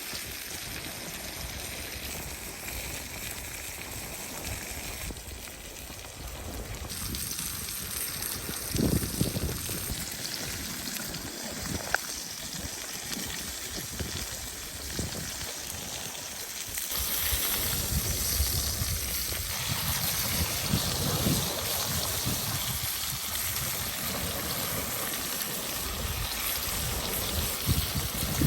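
Steak sizzling in a pan over an open fire: a steady hiss with a few soft knocks, getting abruptly louder about a third of the way in and again past the middle.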